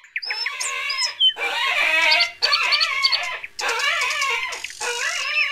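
A chorus of small cartoon animals chirping and squawking in agitated bursts about a second long, broken by brief pauses, with thin whistling glides near the start: the animals are frightened by a strange visitor.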